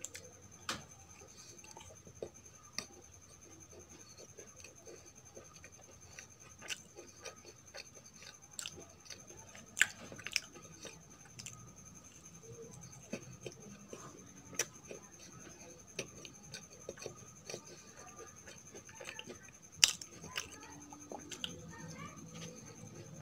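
Close-up mouth sounds of someone chewing a piece of badusha, a fried, sugar-glazed Indian sweet: soft wet chewing with scattered small crisp clicks and crackles, two sharper snaps about ten and twenty seconds in.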